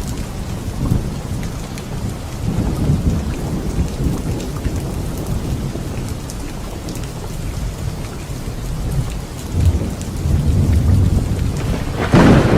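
Steady rain pattering in a thunderstorm, with low thunder rumbling through it and a sharp, loud thunderclap near the end.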